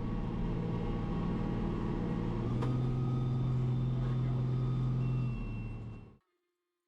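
International 1586 tractor's six-cylinder diesel engine running steadily under load, with a single click about two and a half seconds in, after which a low hum in the engine note grows stronger. The sound cuts off abruptly near the end.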